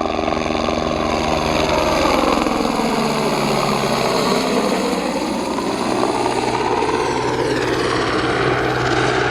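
An engine running steadily, its pitch sinking for a couple of seconds and then climbing again.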